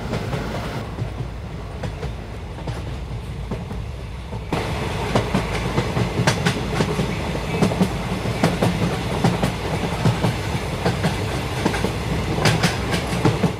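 Passenger train running on the rails: a steady low rumble, which about four and a half seconds in jumps to a louder rumble with the clickety-clack of the wheels over rail joints, as heard inside a moving coach.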